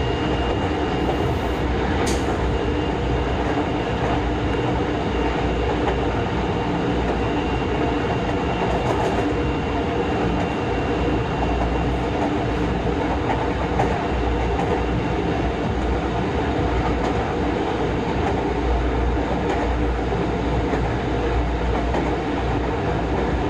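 Running noise of a Tokyo Metro 03 series VVVF electric train heard from inside the car: a steady rumble of wheels on rail at an even speed. A thin high whine fades away about two-thirds of the way through, and there is one sharp click about two seconds in.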